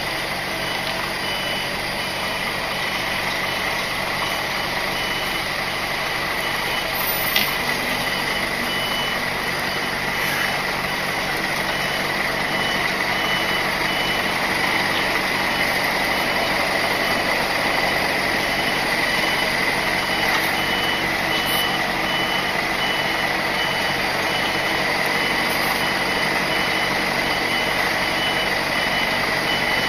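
Articulated lorry's reversing alarm beeping steadily at an even rate over the lorry's diesel engine running at low speed while it manoeuvres.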